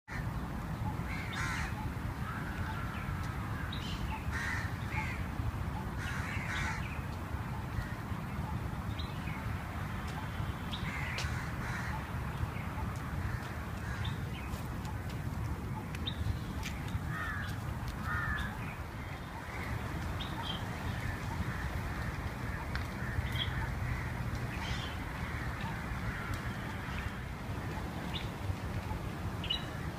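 Birds calling outdoors, many short calls scattered throughout, over a steady low rumble of wind on the microphone.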